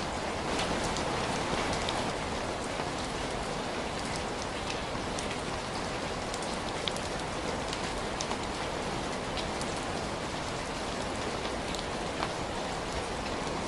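Steady rain falling, an even hiss with scattered faint sharp ticks of drops.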